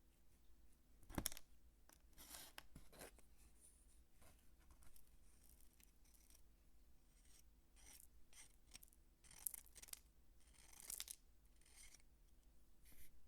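Soap being cut and crumbled close to the microphone: irregular short, crisp rasping and crunching strokes, with a sharper click a little after a second in.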